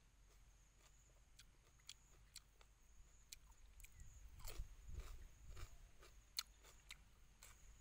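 A person biting into and chewing a fresh lettuce wrap: crisp crunches and wet mouth clicks, busiest and loudest a little past the middle.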